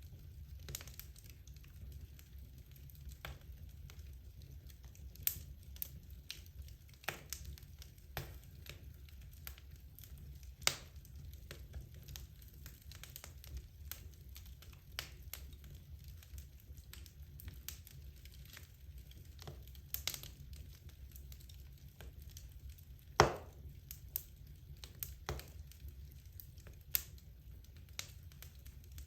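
Logs burning in a fireplace, crackling with irregular small snaps and pops and a few louder pops, over a low steady rumble.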